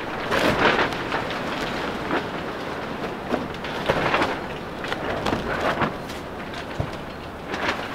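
Gusting wind rocking a small cattle-panel greenhouse, which rattles and clatters in irregular surges.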